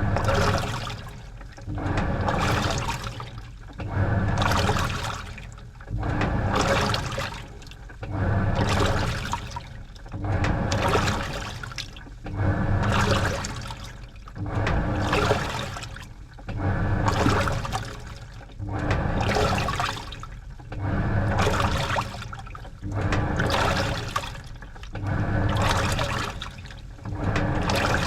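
Washing machine churning laundry in water during the wash, in regular surges about every two seconds, each with a low motor hum and sloshing water.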